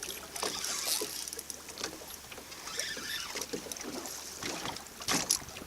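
Ambient sound aboard a fishing boat: irregular small knocks and clicks over a low wash of background noise, with a brief cluster of knocks near the end.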